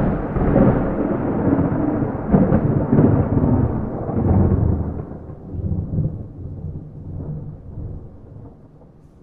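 A thunderclap rolling and rumbling, with several louder surges in the first four and a half seconds before dying away slowly into a low rumble. No rain.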